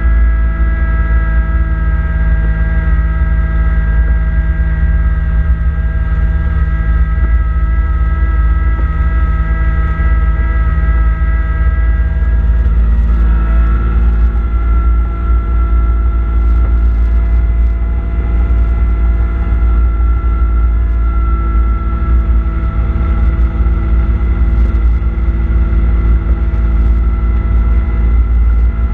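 Kubota B2650 tractor's three-cylinder diesel engine running steadily under a heavy low rumble, driving its front-mounted snowblower. The pitch steps slightly about thirteen seconds in.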